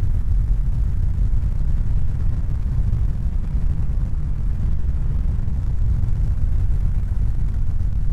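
Steady deep rumbling noise, its energy mostly low in pitch, with no distinct tones, strokes or rhythm.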